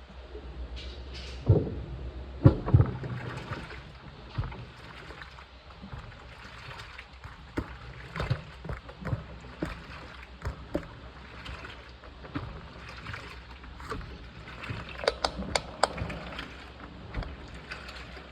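Washing machine running a wash cycle: water sloshing in the drum over a steady low motor hum, with irregular knocks, the loudest near the start.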